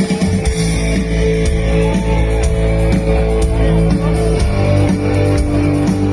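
Rock band playing live, amplified: electric guitar and held chords over a steady beat.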